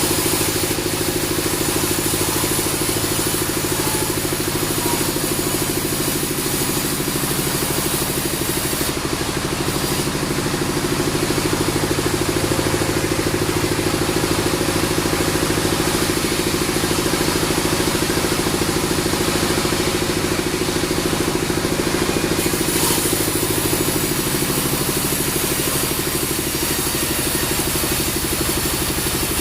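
Bandsaw sawmill running steadily with an even engine-like hum, a little thinner in its high hiss for a stretch in the middle.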